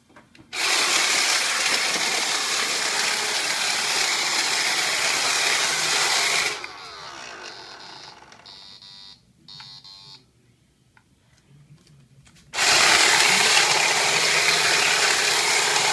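Roomba Discovery robot vacuum running loudly for about six seconds, then stopping and giving short electronic beeps, its odd error signal, before starting up and running loudly again near the end.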